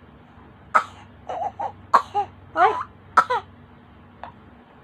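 Six-month-old baby vocalizing in a string of short, high-pitched babbles and fussy grunts, followed by one faint sound near the end.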